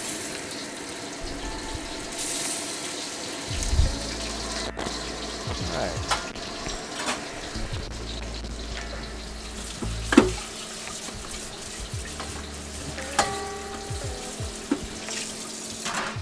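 Pork meatballs sizzling in oil in a round-bottom wok, a steady frying hiss, broken by a few sharp knocks, the loudest about ten seconds in. Lofi background music plays underneath.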